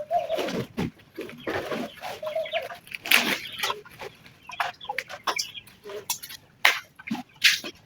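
Chickens clucking: many short calls in quick succession, with short sharp noises in between.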